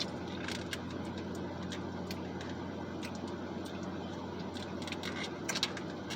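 Eating sounds: scattered small mouth clicks and smacks from chewing food, a few louder ones near the end, over a steady low hum.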